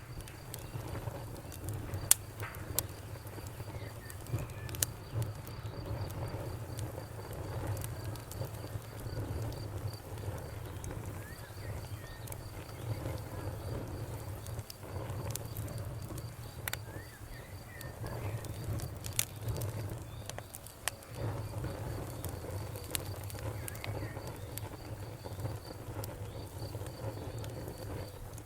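Wood fire crackling, with sharp pops scattered irregularly over a low steady rumble; the loudest pop comes about two seconds in. A cricket chirps steadily in the background.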